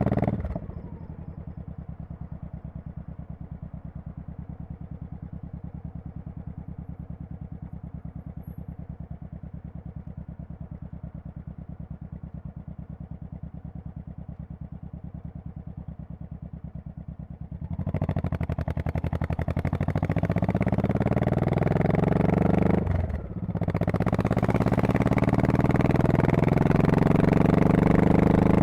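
2002 Honda Shadow Spirit VT1100C's V-twin exhaust dropping to a steady, evenly pulsing idle, then revving up as the bike pulls away. About two-thirds of the way in the revs dip briefly on an upshift before climbing again.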